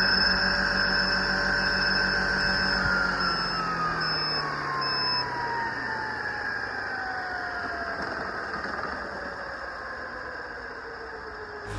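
Radio-controlled helicopter's motor and rotor whining steadily, then winding down, the pitch falling slowly over about eight seconds as the rotor spools down.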